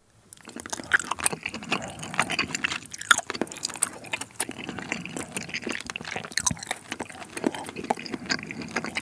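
Close-miked wet chewing of a soft piece of seafood from spicy seafood noodle soup: steady squishing with many small clicks and smacks of the mouth.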